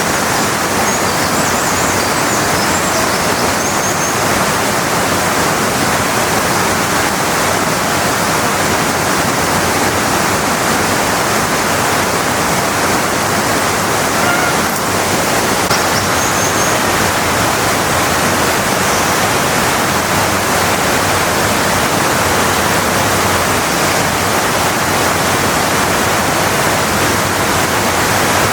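Steady, loud rush of water from Kamba Falls, a large waterfall, unbroken throughout. A few faint high chirps sit over it twice.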